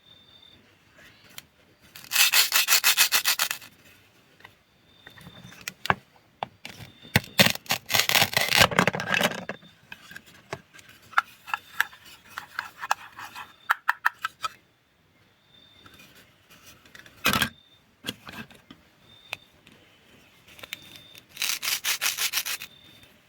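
Food being cut with a knife in a sawing motion: several bursts of fast, rasping back-and-forth strokes, with quieter runs of ticks and single sharp clicks between them.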